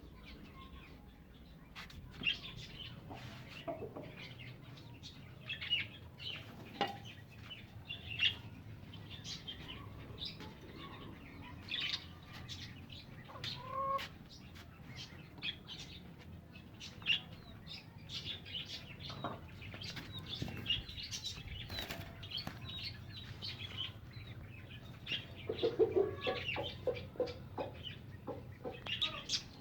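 Birds moving about in a coop: wing flapping and many short scattered chirps, with a cluster of low clucking calls about 26 seconds in.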